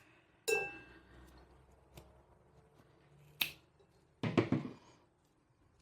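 Quiet handling sounds as a cord is knotted on a stoneware bird feeder: a light knock with a brief ring about half a second in, a sharp click a little after three seconds, and a short rustle a little after four seconds.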